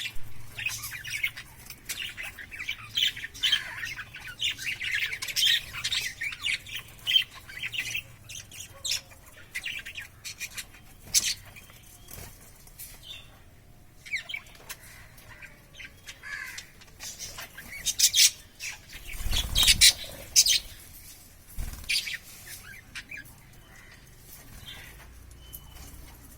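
Pet budgerigars chirping and chattering in quick, high calls, densest in the first several seconds and then more scattered. A louder flurry of calls with a low thump comes about two-thirds of the way through.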